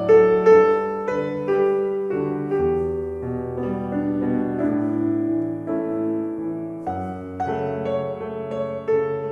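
Background music: a piano playing gentle, slow notes with held bass chords.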